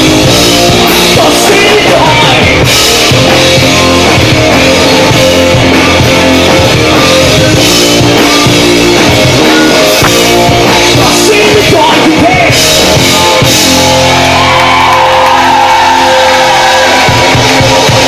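Live rock band playing loud, with drum kit, guitars and singing, recorded in a large club room where the sound is heavily compressed and distorted at full level.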